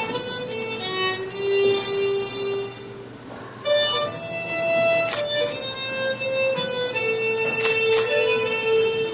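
Two harmonicas, soprano and alto, in the keys of G and G♯, playing a slow melody together in held notes; the sound drops away briefly about three seconds in and comes back a little later.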